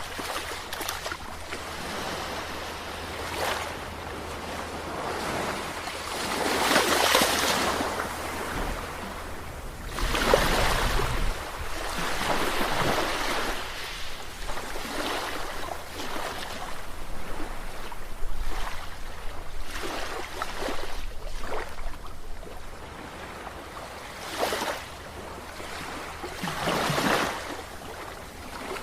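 Sea waves breaking and washing in, the surf swelling and fading in surges every few seconds over a steady low rumble.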